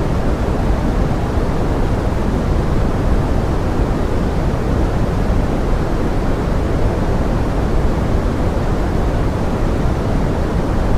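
Steady pink noise, an even rushing hiss weighted to the low end and dull in the highs, with nothing standing out from it.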